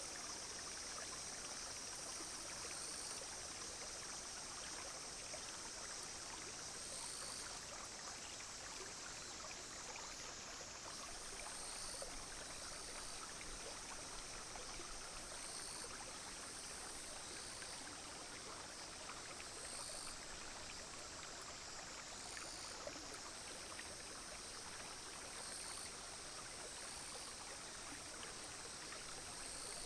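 A small clear stream flowing and trickling steadily. Over it, insects, cicadas among them, call in a steady high drone that swells about every two seconds.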